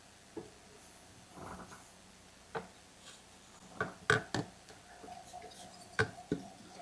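Scattered light clicks and knocks of small parts and tools being handled while a chainsaw's fuel line is fitted, loudest in a pair about four seconds in.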